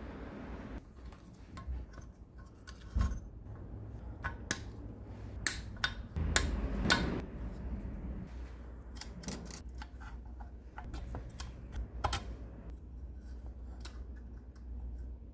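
Metal parts of an electric planer and hand tools being handled on a workbench: scattered clicks, taps and clinks at irregular intervals over a steady low hum.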